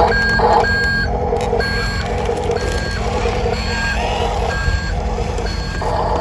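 Electronic reversing beeps from an RC construction toy's sound module, repeating about once a second over a steady low hum.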